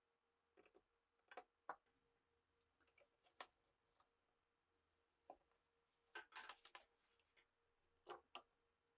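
Sparse, light clicks and taps, irregular, with a quick cluster about six seconds in and two more near the end: small parts being handled at a workbench. A faint steady hum underneath.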